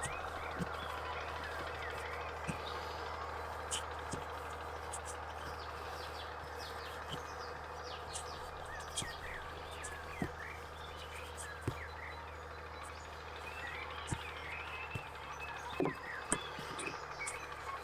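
Small birds chirping in quick short calls over a steady low hum and rushing background, with occasional sharp clicks.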